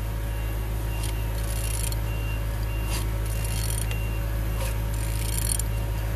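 Removed used engine being turned over by hand with a wrench: short scraping, clicking strokes about once a second over a steady low hum. The engine turns freely.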